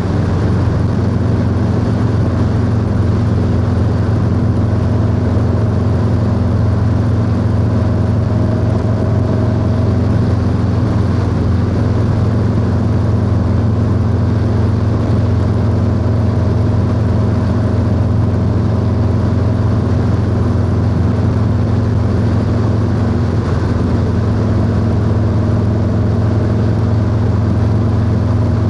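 Harley-Davidson Low Rider S (FXLRS) V-twin engine and exhaust running at a steady cruise, with the engine speed held constant throughout.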